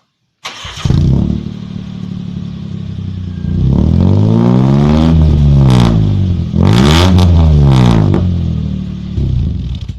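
Engine exhaust through an HKS aftermarket muffler: the engine starts about half a second in and runs steadily, then is revved twice, its pitch rising and falling each time.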